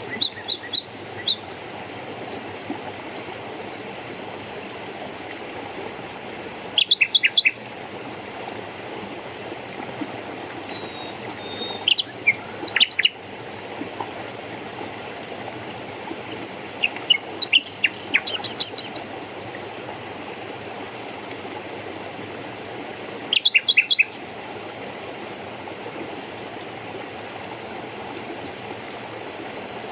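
A songbird repeats a short song about every five or six seconds: a thin falling whistle followed by a quick run of high notes. Steady running water rushes underneath.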